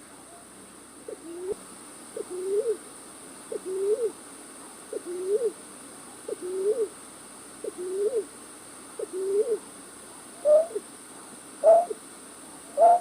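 Repeated hooting calls of a night bird, played as a trapping lure: one low call about every one and a half seconds, each rising and then hooking over. From about ten seconds in, the hoots turn shorter, higher and a little quicker. A faint steady hiss lies under them.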